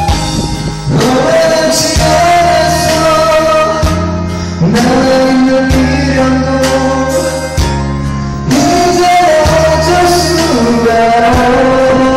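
A man singing a Korean pop ballad in long held notes over a karaoke band backing track.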